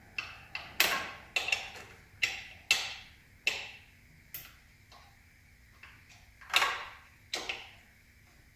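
Hand tool tightening the office chair's assembly bolts: about a dozen irregular, sharp metallic clicks, each with a short ringing tail. The loudest come about a second in and near the end.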